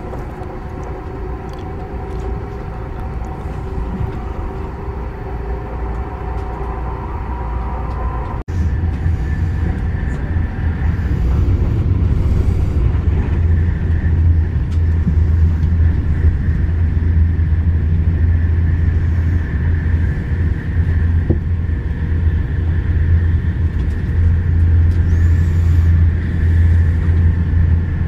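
Steady running rumble of a moving train, with a few humming tones over it. About eight seconds in the sound breaks off abruptly and comes back as a louder, deeper rumble.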